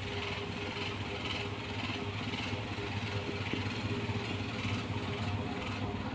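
Tractor engine running steadily at low revs with an even hum.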